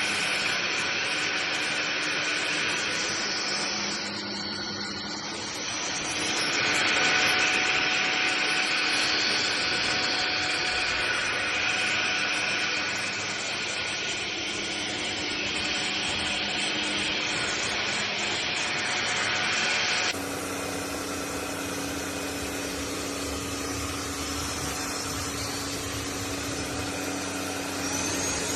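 Cordless stick vacuum cleaner running steadily with a motor whine over a rush of airflow. About two-thirds of the way through, the sound changes abruptly to a lower, steadier tone.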